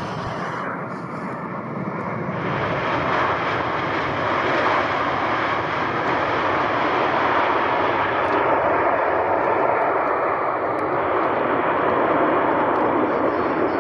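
Airliner engines, a loud steady rush of engine noise that swells about two seconds in and then holds.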